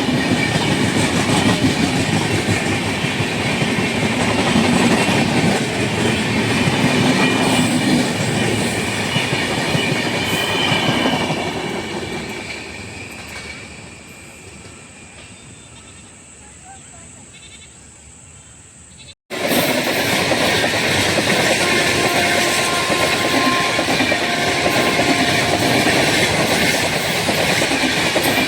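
Train running on track, wheels clattering over the rail joints; the noise dies away over a few seconds. After an abrupt cut, steady loud train running noise comes back.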